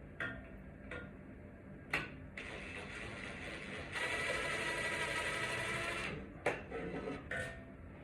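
A small electric motor whirs steadily for about three and a half seconds, louder over its last two seconds. Sharp clicks and knocks come before and after it.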